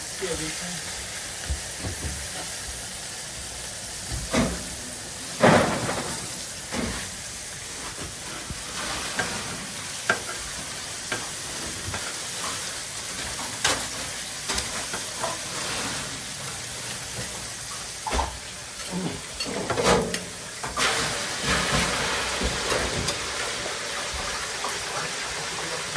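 Burger patties sizzling and frying on the grill, a steady hiss broken by scattered knocks and clatter, loudest about five and a half seconds in and again around twenty seconds in.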